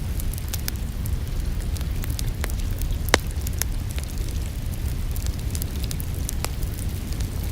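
Wood fire crackling, with many small pops and one sharp, loud crack about three seconds in, over a steady low rumble.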